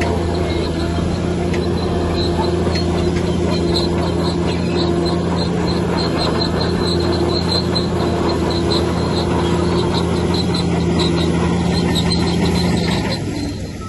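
Heavy diesel earthmoving machine running steadily under load, with a rapid string of high metallic squeaks through the middle, like crawler tracks squealing. The engine note drops away briefly near the end.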